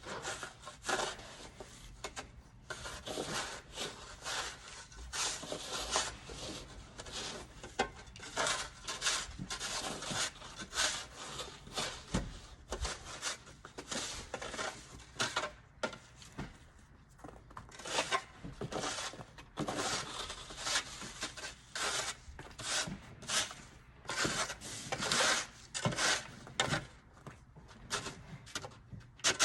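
Snow shovel scraping over a driveway in repeated short strokes, about one or two a second.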